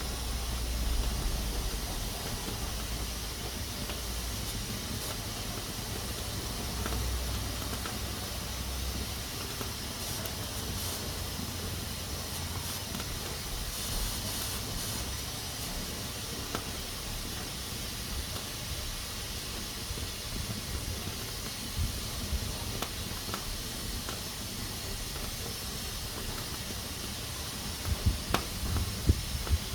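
Pressure cooker hissing steadily as steam escapes through its valve, with a few sharp clicks near the end.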